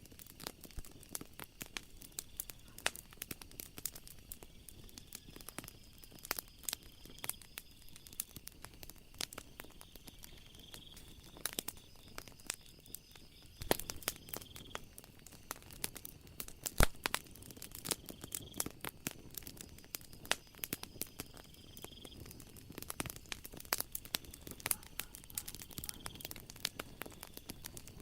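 Wood fire crackling, with a dense run of irregular sharp pops and one louder snap about two-thirds of the way through; a steady high-pitched insect trill runs underneath.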